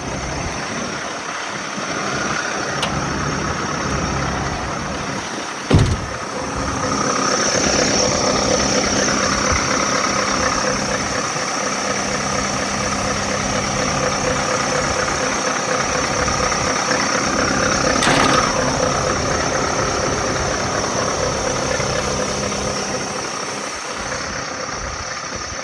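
Scania R660's V8 diesel engine running at a steady idle. A single loud thump comes about six seconds in.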